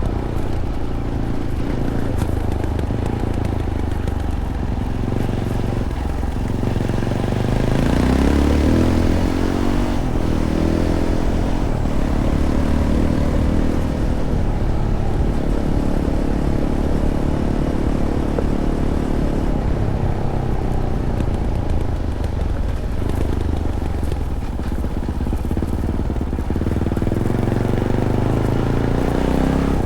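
Fantic Caballero 500's single-cylinder engine running through its stock Arrow exhaust while being ridden. The engine note rises as it accelerates about eight seconds in, then holds steadier with further changes in pitch as the throttle varies.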